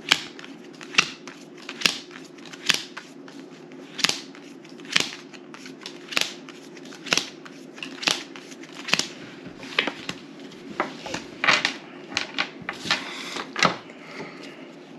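Playing cards being laid and flicked down onto a table, one sharp slap roughly every second, with a quicker run of card sounds about three-quarters of the way through. A steady low hum lies underneath.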